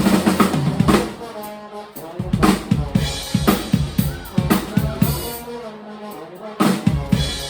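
Live band music led by a drum kit playing a busy beat of kick, snare and rimshots, with held pitched notes over the drums in the middle stretch.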